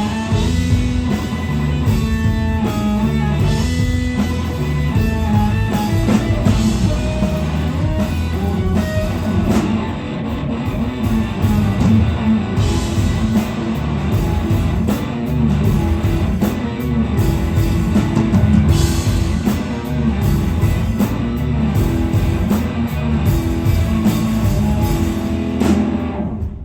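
Live blues-rock band playing an instrumental passage: electric guitar over bass and a drum kit. The music drops away near the end.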